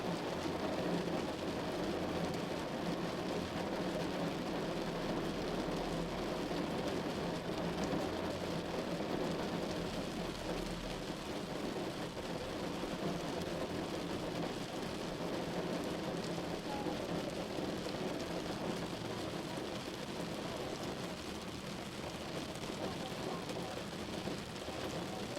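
Steady rain on a car's roof and windshield, heard from inside the car while it is driving, an even rush with no breaks.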